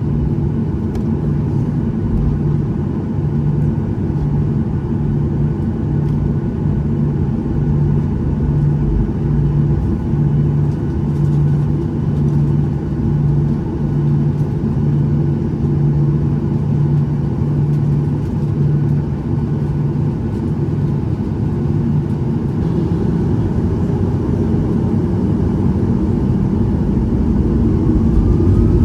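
Inside the cabin over the wing of a Boeing 737-800: its CFM56-7B engines running at low power with a steady rumble and a low hum that pulses about once a second. Near the end a rising whine comes in and grows louder as the engines begin to spool up.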